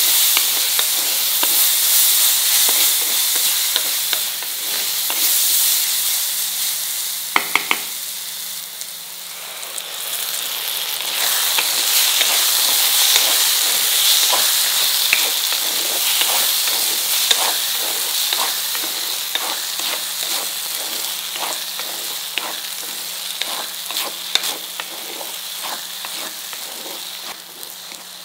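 Grated corn paste and onions sizzling in oil in a kadai while a spatula stirs and scrapes the pan in repeated strokes. A brief sharp knock comes about seven seconds in.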